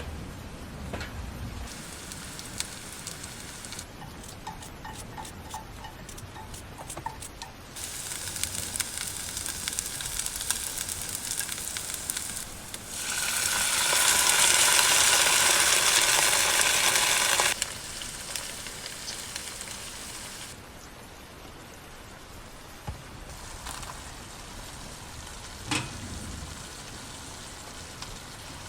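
Food sizzling in a frying pan, coming in several separate stretches that start and stop abruptly. It is loudest for about four seconds around the middle, with a few light clicks of utensils.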